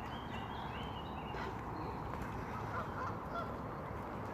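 Waterfowl calling: a run of short high calls at the start, then short honking calls about a second and a half in, over a steady background rush.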